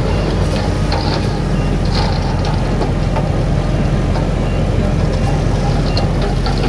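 Heavy diesel earthmoving machinery running steadily under load, a deep continuous engine drone with short metallic clanks and rattles scattered through it.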